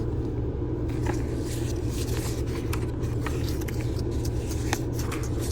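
Steady low rumble of a car, with a few faint clicks through it.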